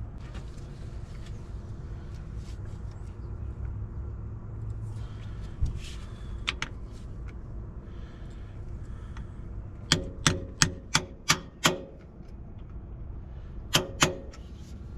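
Hammer tapping a part into place in a John Deere 724J loader's diesel engine: a few light taps, then a quick run of six sharp metal strikes, about three a second, and two more near the end. The part is a fuel-system piece with a fresh O-ring, being driven in without the proper installation tool.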